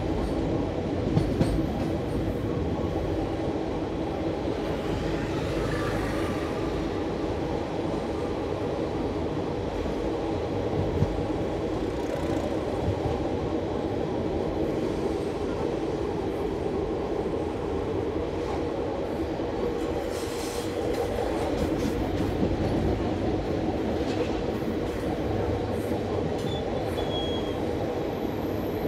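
Passenger train running along the track, heard from inside a coach at the window: a steady running noise of wheels on rail.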